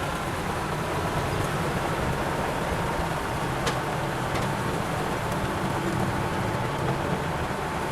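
A heavy machine's diesel engine running steadily, with a faint steady whine above it and two light clicks around the middle.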